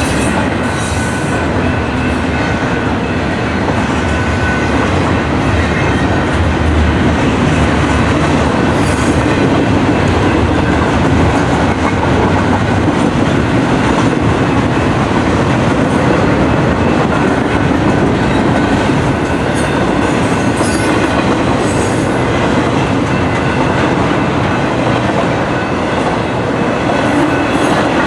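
Long BNSF intermodal freight train rolling steadily past a grade crossing: continuous wheel-on-rail rumble and clatter from the passing cars, with faint wheel squeal.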